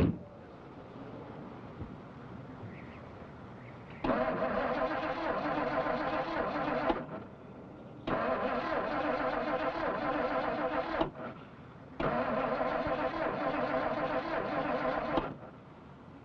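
A car door slams shut, then the old station wagon's starter cranks the engine three times, about three seconds each with short pauses between, and the engine never catches: it fails to start in the cold.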